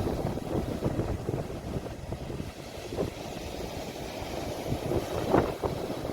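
Sea surf with wind rumbling on a phone's microphone, a low, uneven wash with a few short, sharper splashes about five seconds in.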